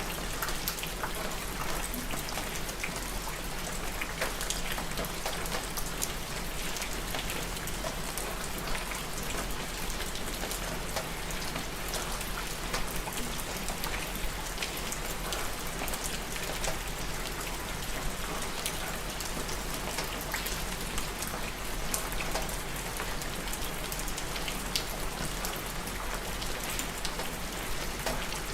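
Steady rain falling, a dense even hiss with the patter of individual drops striking a surface.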